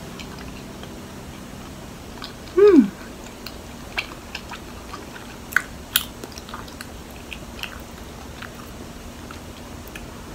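Close-up mouth sounds of chewing soft, sticky mochi with a taro filling: scattered small wet smacks and clicks. About two and a half seconds in, a short falling "mm" hum is the loudest sound.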